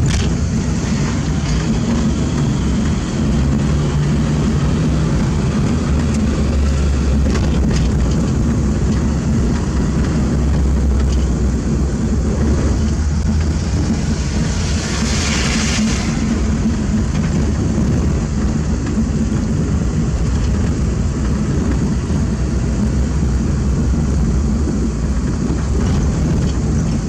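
Heavy diesel engine of earthmoving machinery running steadily at an even pitch, with a brief hiss about halfway through.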